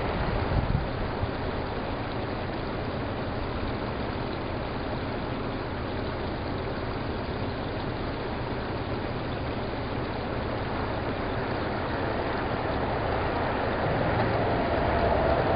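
A car engine running steadily, heard from inside the car as a low rumble under a constant hiss.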